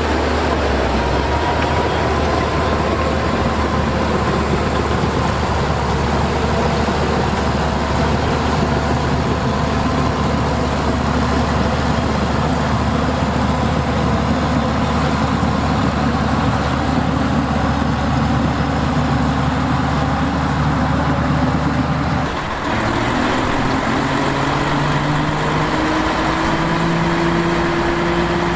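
Heavy diesel engine of earthmoving machinery running under steady load. About 22 seconds in, the sound dips briefly and the engine note changes, then climbs slowly.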